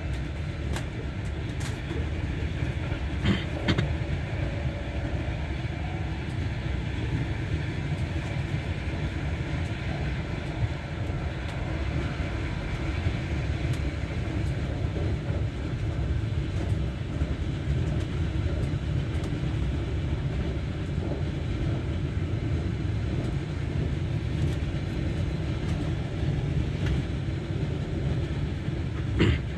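Passenger train running along the track, a steady low rumble heard from aboard, with a few sharp clicks from the wheels and rails, two of them close together about three and a half seconds in and one near the end.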